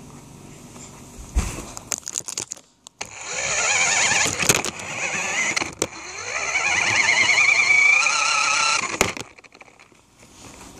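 Small electric motor and plastic gears of an RC truck whining as it drives, the pitch wavering and rising with the throttle for several seconds before cutting off. There are knocks and clatters around it as the car bumps along.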